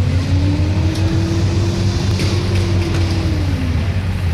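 1983 Chevrolet pulling truck's engine running hard under load as it drags the weight sled, with a deep steady rumble; its pitch climbs, holds, and sags back near the end.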